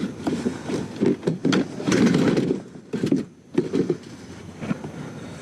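Irregular clattering, knocking and rustling of junk and scrap items being shifted around and loaded in the back of a minivan.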